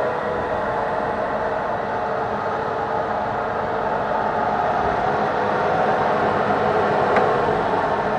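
An Okamoto machine tool running under power in a working test: a steady mechanical hum with a faint whine, and a single click about seven seconds in.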